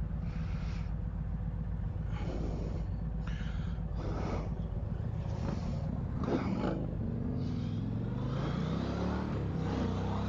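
Big V-twin bagger motorcycle engines running while riding, with short bursts of wind noise; in the last few seconds the engine pitch swings up and down as the bikes rev.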